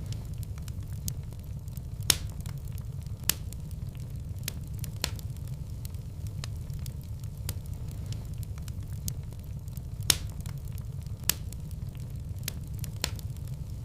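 Wood fire burning in a fireplace: a steady low rumble of flames with irregular sharp crackles and pops, the loudest about two seconds in and about ten seconds in.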